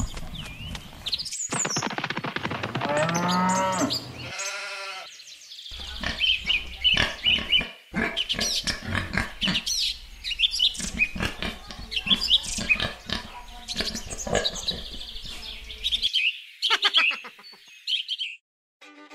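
Farm-animal sound effects: a few pitched animal calls in the first five seconds, then a long stretch of high bird chirps and tweets mixed with clicks, ending with a few falling chirps.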